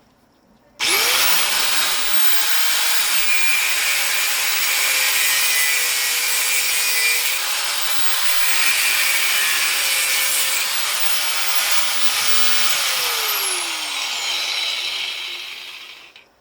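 Angle grinder switched on about a second in and grinding into a scrapped electric motor to get at its copper windings. Near the end it is switched off and its whine falls as it winds down.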